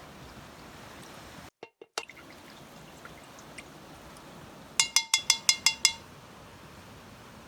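A paintbrush being rinsed in a glass jar of water, clinking against the glass about seven times in quick succession past the middle, with a steady wash of water sound underneath.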